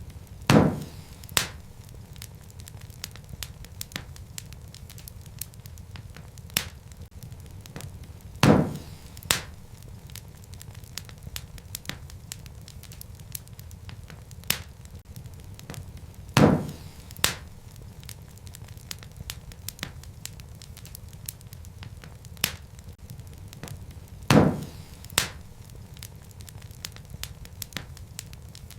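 Wood fire crackling: a steady low rumble of flames with scattered small clicks and sharp pops from the burning logs. The loudest pops come about every eight seconds, each followed by a second, smaller pop under a second later.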